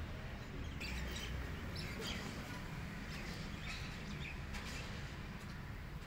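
Small birds chirping, short high calls every second or so, over a steady low rumble.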